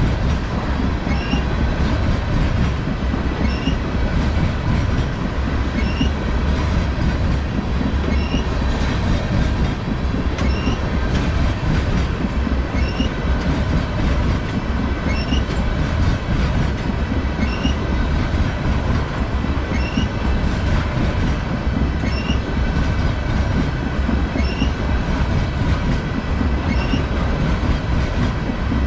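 Tank cars of a long freight train rolling past close by: a steady, loud rumble of steel wheels on rail. A faint high chirp recurs about every second and a quarter.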